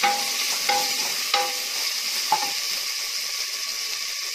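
Onions and tomatoes sizzling in oil and ghee in a stainless steel pressure cooker, stirred with a wooden spatula. The spatula knocks against the metal pot four times in the first two and a half seconds, each knock ringing briefly.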